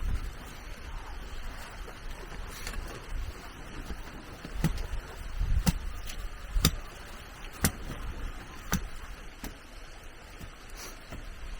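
A series of sharp knocks, about one a second, over a steady background hiss.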